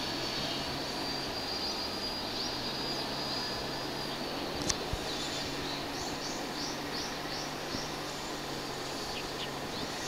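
Outdoor background with a low steady hum and a high, insect-like steady tone. A sharp click comes a little before halfway, then a quick run of about six short, high, falling chirps from a small bird.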